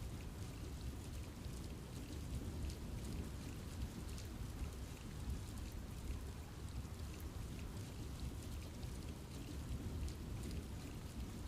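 Steady rain falling in a forest, with many separate drops pattering on leaves and a deep, even rumble underneath.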